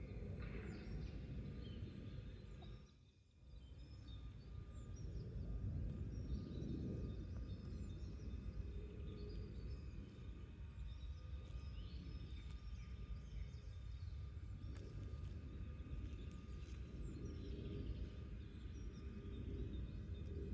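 Outdoor garden ambience: a steady low rumble with scattered faint, short bird chirps above it. The rumble drops away briefly about three seconds in.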